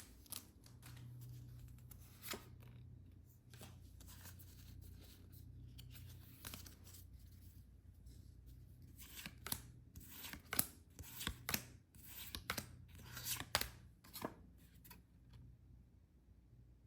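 Packaging being handled and torn open: scattered rustling, crinkling and tearing with sharp clicks, busiest about nine seconds in and tapering off near the end.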